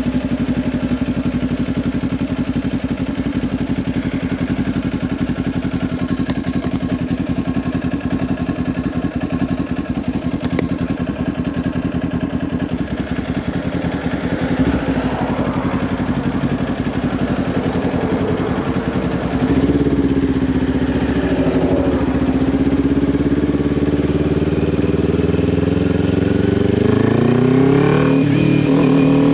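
Kawasaki Ninja 400's parallel-twin engine through a Leo Vince LV10 slip-on exhaust, running steadily for the first half, then revving up with rising pitch several times as the bike accelerates.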